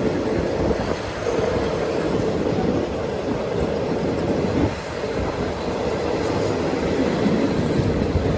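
Passenger train running along the line, heard from aboard the carriage: a steady rumble of wheels on rail.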